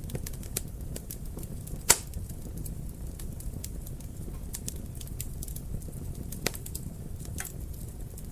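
Wood fire burning in a fireplace: a low steady rumble of flames with irregular crackles and pops, the loudest snap about two seconds in and another a little after six seconds.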